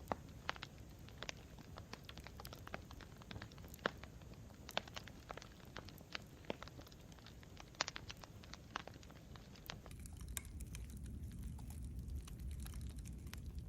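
Campfire crackling, with many sharp snaps and pops over a low rumble of burning. About ten seconds in, the snaps grow fewer and fainter and the low rumble gets louder.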